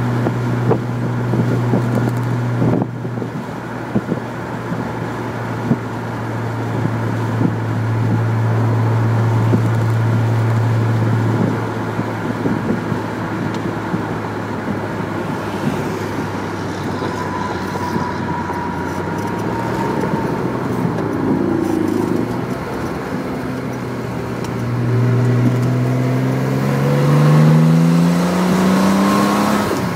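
Chevrolet Corvair's air-cooled flat-six engine running at a steady speed while driving, heard from inside the car over road noise. Near the end the engine note rises as the car accelerates, then drops sharply.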